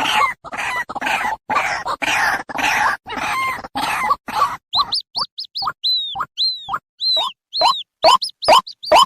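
White-breasted waterhen calls: rough, grating croaking notes for the first half, then a quick series of short, sharp, high notes, about three a second.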